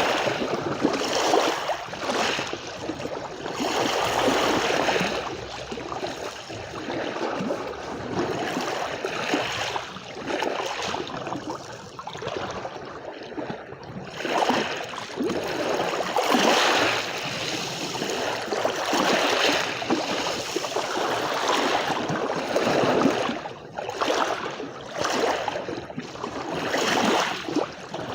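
Small sea waves washing onto a beach, the surf swelling and ebbing every few seconds.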